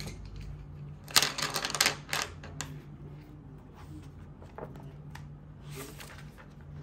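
A quick run of sharp clicks and rattles about a second in, followed by a few scattered single clicks, over a steady low hum.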